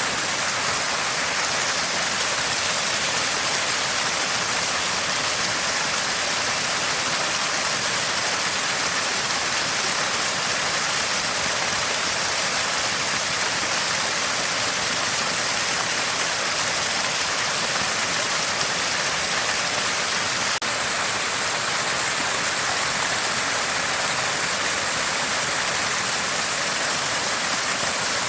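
Small spring with water gushing out and splashing in a constant gurgle, a steady even hiss that does not change.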